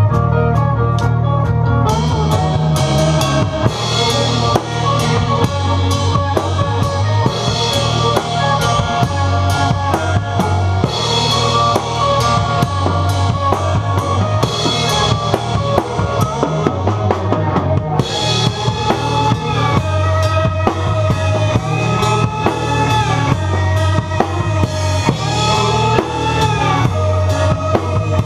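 Rock music played by a band, led by a drum kit with bass drum and snare keeping a steady beat under pitched instrument lines.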